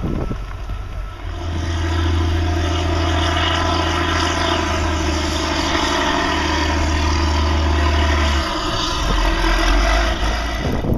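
A motor vehicle's engine running close by at a steady speed, its low hum holding one pitch and then dropping lower about eight and a half seconds in.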